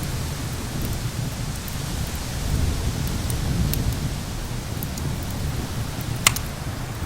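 Steady low rumble of thunder and wind under an even hiss, with sparse sharp crackles and pops from a wood fire; the loudest pop comes about six seconds in.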